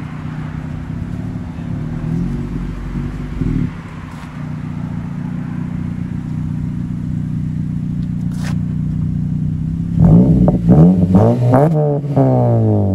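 2014 Honda Civic Si's 2.4-litre four-cylinder idling steadily through a muffler-delete exhaust that keeps the resonator and a resonated 4-inch tip. About ten seconds in it is revved in several quick blips, then a longer rev that falls back toward idle near the end.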